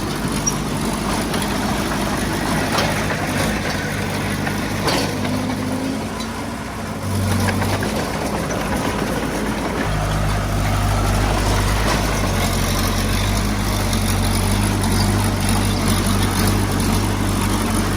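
Heavy-equipment diesel engine running steadily. Its low rumble dips briefly about seven seconds in, then grows louder and fuller from about ten seconds on. A couple of sharp clicks come in the first five seconds.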